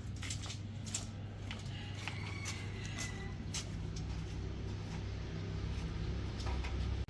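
A low, steady engine rumble, with scattered sharp clicks and knocks and a brief high squeal about two to three seconds in.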